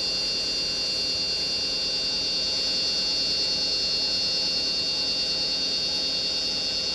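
Wood lathe running steadily: an even motor hum with a constant high whine.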